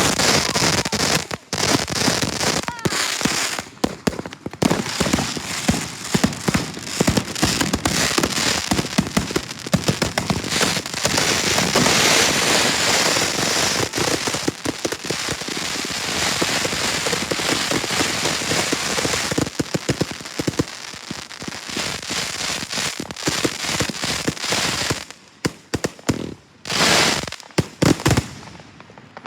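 Fireworks going off in a dense barrage: a continuous stream of bangs and crackling that dies away about 25 seconds in, followed by one last short burst near the end.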